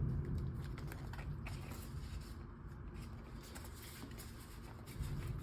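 Light rustling of paper cash and envelopes being handled, with scattered small clicks and taps, over a steady low background noise.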